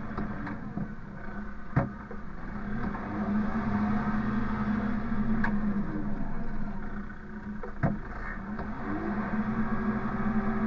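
A vehicle engine running steadily, its pitch rising and falling slowly, with two sharp knocks, one about two seconds in and one near eight seconds.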